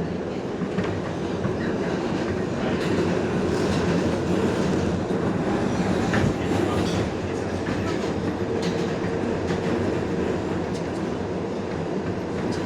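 R142A subway train running at speed, heard from inside the car: a steady rumble of wheels on rail with clickety-clack over the rail joints. A faint steady tone joins for a few seconds midway.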